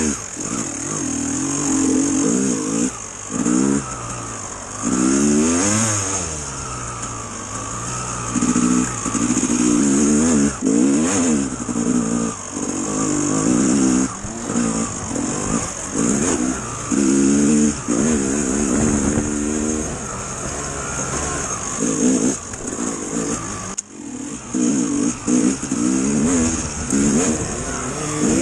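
Dirt bike engine being ridden, revving up and dropping back again and again as the throttle is opened and closed.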